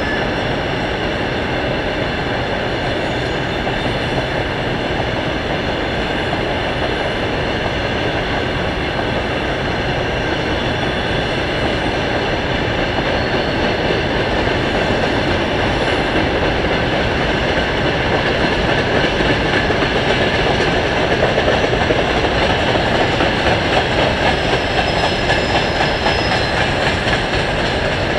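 Long freight train of open wagons rolling steadily along the track, its wheels clattering over the rail joints, with steady high-pitched wheel squeal on the curve. The clatter grows louder and more rhythmic in the second half.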